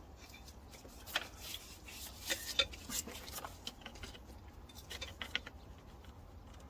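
Hand tools clinking and scraping against metal engine parts: a scattered series of light clicks and rubs during an engine teardown.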